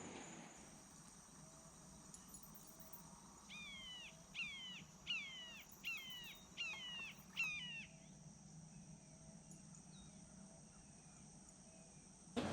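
A bird calls six times in a quick series of harsh, falling calls, about two a second, over a steady high drone of insects.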